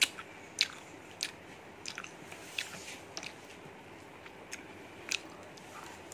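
A person chewing and biting food, with a string of sharp wet mouth clicks and smacks at irregular intervals.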